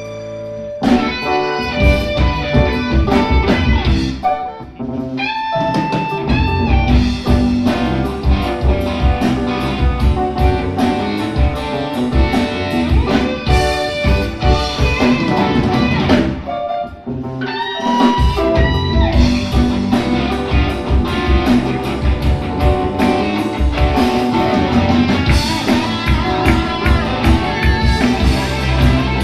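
A rock band playing live in an instrumental passage, led by electric guitar over a drum kit. A held chord gives way about a second in to the full band, which drops back briefly twice, around five and seventeen seconds in.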